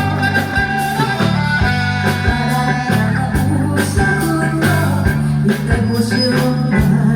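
Live band playing a song: guitar leads over a steady bass line and drum beat.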